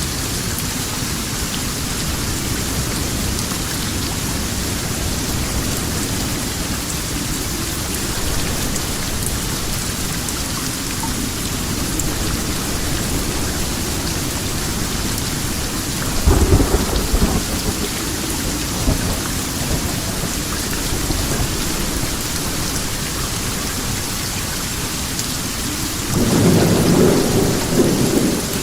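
Steady rain falling, with two rumbles of thunder: one a little past halfway through, lasting about two seconds, and a longer one near the end.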